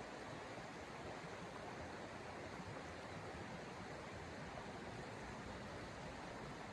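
Steady rushing wind noise with no distinct events.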